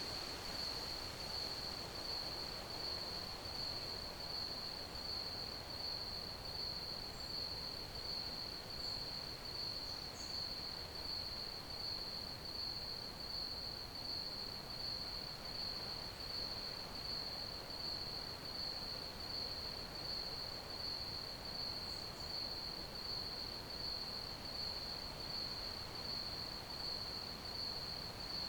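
Crickets chirping in a continuous high-pitched trill on one steady pitch, swelling and fading about once a second. Now and then a faint, higher short chirp comes in over it.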